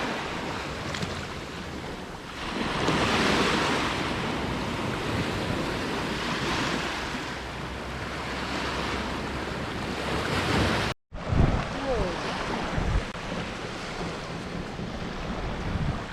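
Ocean surf breaking on a beach, the wash swelling and easing every few seconds, with wind buffeting the microphone. About eleven seconds in the sound cuts out for an instant and comes back quieter.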